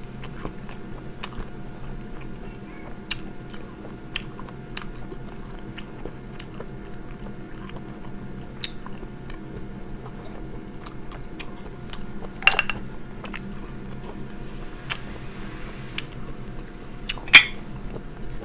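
Close-up eating sounds of someone chewing sea snail meat: wet mouth clicks and smacks scattered irregularly throughout, with two louder smacks about twelve and seventeen seconds in, over a faint steady hum.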